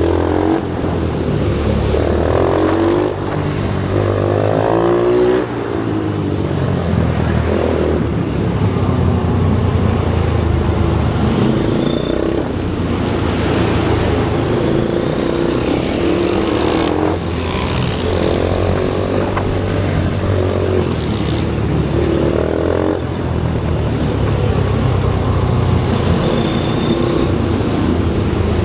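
Single-cylinder pit bike engine running hard, revving up in repeated rising sweeps and easing off between them over a steady engine drone.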